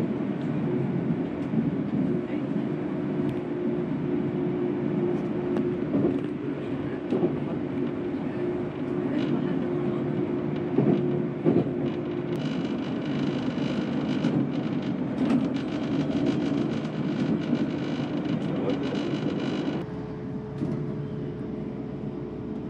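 Passenger train running along the track: a steady rumble with occasional clicks from the wheels on the rails. Past the middle a hiss with high whining tones joins for several seconds. Near the end the sound changes abruptly to a quieter, steadier hum.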